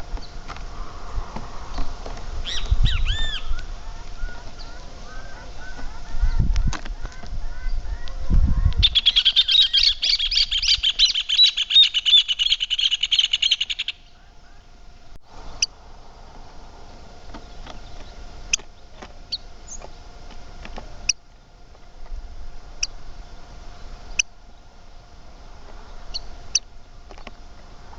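Backyard birds calling: scattered chirps and gliding whistles, then about nine seconds in a loud, rapid chattering song of fast repeated notes that lasts about five seconds and stops abruptly, followed by short separate chirps.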